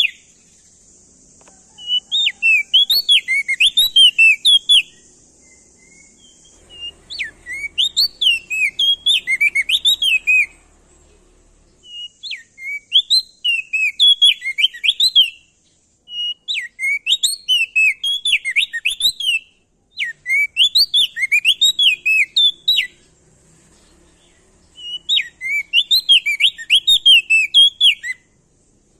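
Crested heleia (opior jambul, locally called prenjak daun) singing loud bouts of rapid, warbling chirps, about six phrases of three to four seconds each with short pauses between them.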